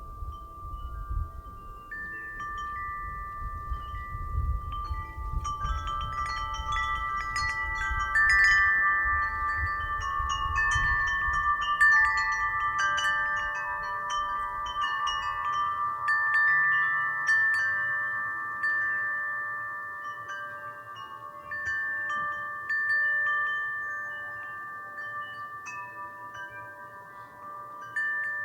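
Metal wind chimes ringing in the wind: many clear, long-ringing tones overlapping as the chimes strike each other, busiest in the middle and thinning out later. A low wind rumble sits under them, fading about halfway through.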